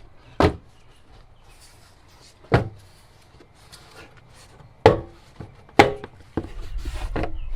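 Plastic bumper trim clips snapping loose as the trim piece is pushed up off a Nissan Xterra's rear bumper: four sharp snaps a second or two apart, then a low rumbling scrape near the end as the piece shifts.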